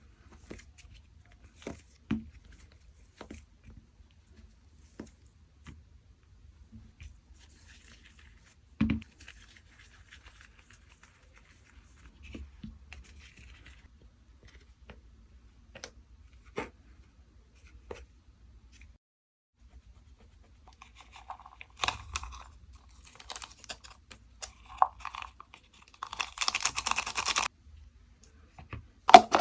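Slime being stretched and pressed by hand: scattered sticky clicks and small pops, then near the end a couple of seconds of dense crackling.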